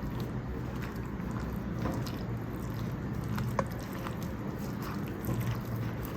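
Chicken pieces being mixed in a thick, wet marinade of egg, lemon juice, gram flour, corn flour and spices. Soft, wet squelching with small scattered clicks.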